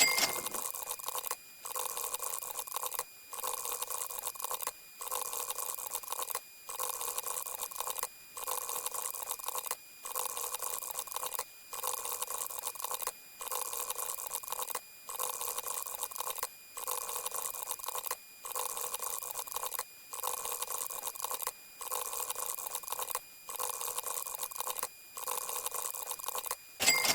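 A short, hissy sound effect looped over and over, repeating about every second and a half with a brief gap between repeats, with faint steady tones running through it. A sharp, sudden sound comes at the start and again near the end.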